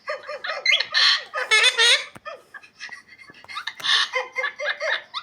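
Pet parrot calling in a run of loud squawks with quickly wavering pitch: one bunch about one to two seconds in, a short lull, then more calls near the end.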